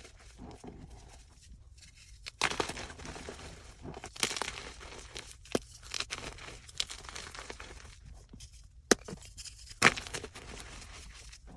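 Gym chalk being crushed: soft, irregular crunching and crumbling with about half a dozen sharper cracks.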